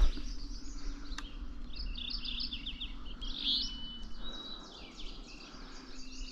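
Several songbirds singing in spring: a quick run of short, high repeated notes about two seconds in and a held high note around four seconds, with a sharp click at the very start.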